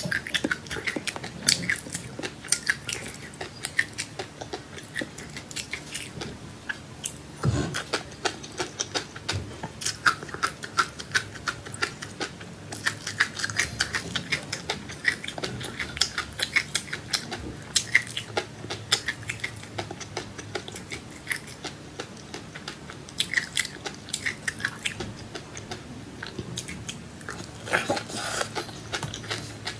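Close-up chewing and crunching of seeds, with many quick crisp crackles and clicks coming unevenly and without pause.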